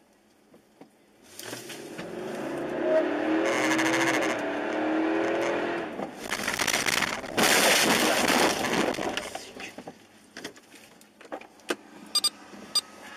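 Car engine speeding up, its pitch rising, then a loud rough noise lasting about three seconds that fades away, followed by a few sharp clicks near the end.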